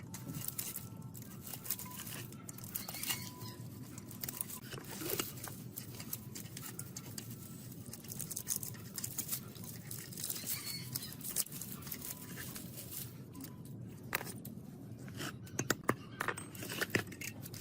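Workshop handwork on electric motor parts: irregular small clicks, taps and scrapes of tools and metal over a steady low background hum.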